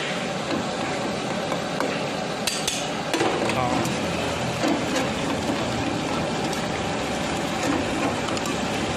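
Chicken frying in a steel karahi of hot oil and lamb fat, a steady sizzle, with a metal skimmer clinking and scraping against the pan a few times.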